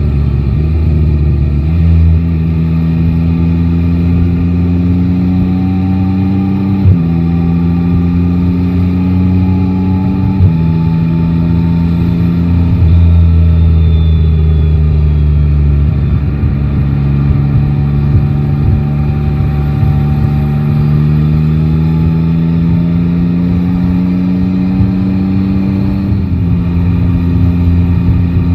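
Yamaha Tracer 9 GT's inline-three engine pulling through the gears while riding in traffic: its pitch climbs slowly and drops abruptly several times as gears change, with wind and road noise beneath.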